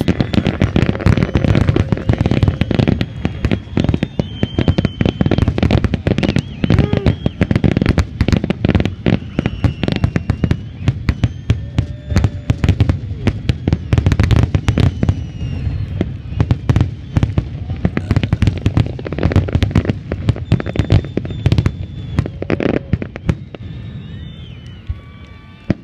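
Aerial fireworks shells bursting in a rapid, continuous barrage of bangs, thinning out and getting quieter near the end.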